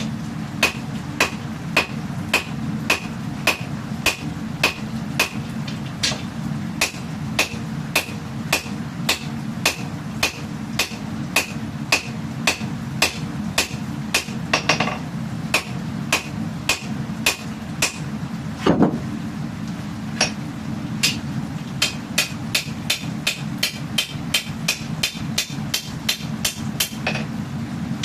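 Hammer striking steel on an anvil while forging a katana blade, in a steady rhythm of ringing blows: about two a second, quickening to about three a second in the later part. A steady low hum runs underneath, and a single longer, louder sound breaks the rhythm briefly just before the blows speed up.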